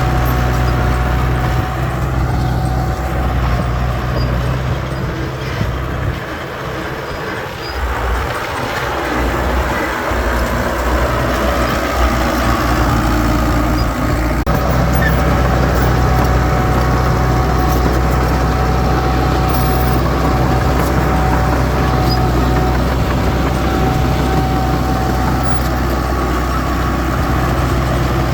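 Heavy diesel engine of earthmoving machinery running steadily with a deep, even drone. The low engine note falls away for a few seconds about six seconds in, then returns.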